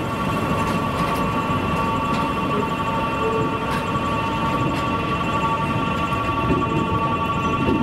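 Train of 521 series electric cars rolling slowly past, towed by a DE10 diesel locomotive. There is a steady rumble, several steady high-pitched tones on top, and a few faint clicks from the wheels.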